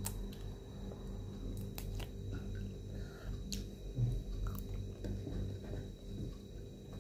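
Close-up eating sounds: a person chewing cooked shrimp, with small scattered clicks from handling the shell and mouth, over a steady low hum.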